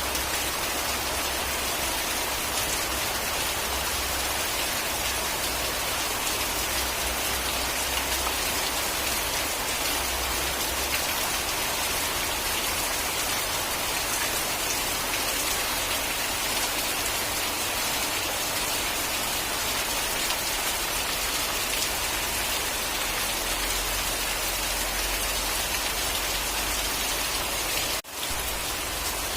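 Steady rain falling and pattering on a surface, an even hiss of drops with a momentary dropout near the end.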